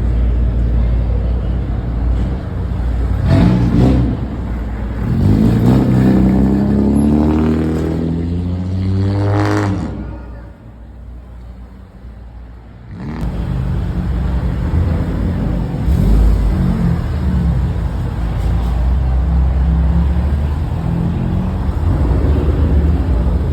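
Car engines at a car meet revving and accelerating. Twice in the first ten seconds an engine climbs steadily in pitch as a car pulls away hard. It then drops to a much quieter few seconds before a low rumble of engines running returns.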